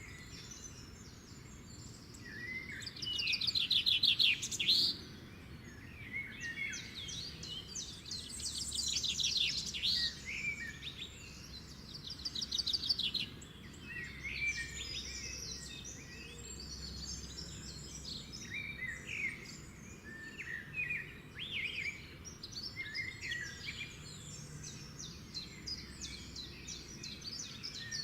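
Several songbirds singing and calling at once, a busy mix of chirps with loud fast trills now and then, the strongest of them in the first half.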